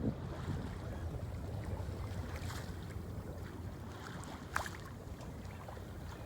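Wind on the microphone and water noise aboard a sailboat under sail with its motor off, a steady low rumble, with one brief click about four and a half seconds in.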